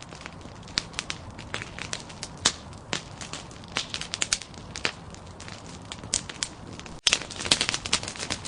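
Wood fire of burning logs crackling, with frequent sharp pops over a steady hiss. About seven seconds in the sound cuts out for an instant and comes back with louder, denser crackling.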